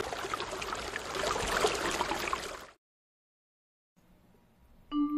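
Water trickling and splashing from the hose of a miniature hand pump, cutting off abruptly after a little over two seconds. A flute melody begins near the end.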